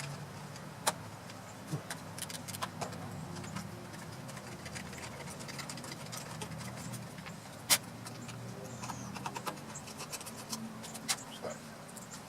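Scattered metal clicks and clinks of hand tools and small engine parts being handled, the sharpest one about three-quarters of the way through, over a steady low hum.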